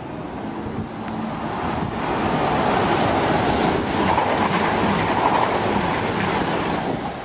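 A Class 222 Meridian diesel multiple unit runs through the platform close by, a rush of wheel and engine noise. It builds over the first couple of seconds, is loudest in the middle as the coaches pass, and eases near the end.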